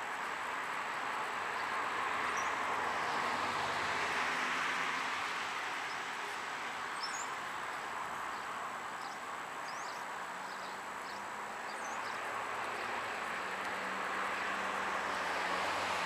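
Outdoor ambience: a steady rushing noise that swells and eases every few seconds, with faint bird chirps above it.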